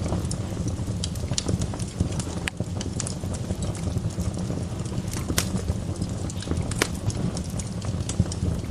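Wood fire burning in a fireplace: a steady low rumble of the flames with frequent irregular crackles and pops of burning logs.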